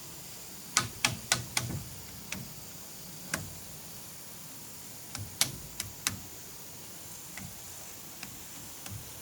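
A series of short, sharp knocks: four quick ones about a second in, single ones near two and three seconds, a cluster of three or four around five to six seconds, then a few fainter ones. A faint steady high hiss runs underneath.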